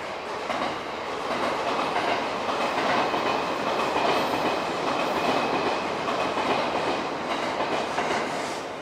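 Tokyo Waterfront Area Rapid Transit 70-000 series electric train pulling into the platform, its wheels rolling on the rails. The running noise grows louder over the first few seconds as the train draws in.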